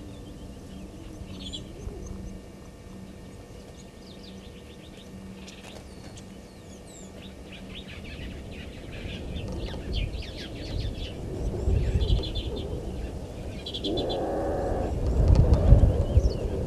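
Small birds chirping and twittering throughout, with a short lower-pitched call about fourteen seconds in and low rumbling that builds in the second half.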